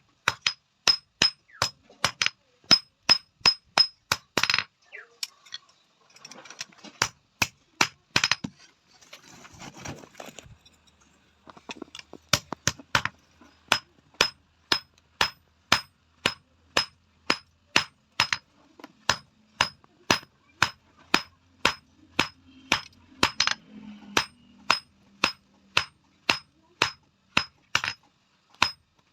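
Hand hammer striking a steel tawa blank on an anvil in a steady rhythm, about three blows a second, each blow ringing bright and metallic. About five seconds in the hammering stops for several seconds, leaving only quieter irregular knocks and noise, then picks up again at the same pace.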